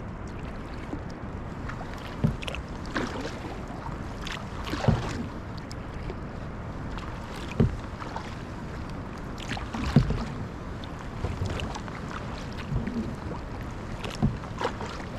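Kayak paddles dipping and splashing in the water, a stroke every couple of seconds, over a steady background hiss.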